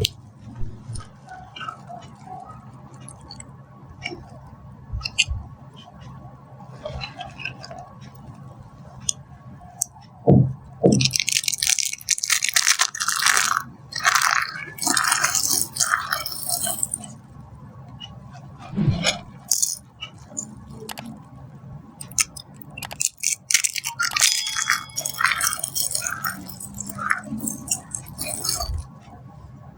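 Dry soap being crushed: a run of crisp crunches and crackles, densest from about twelve to seventeen seconds in and again around twenty-four seconds, with scattered small clicks between.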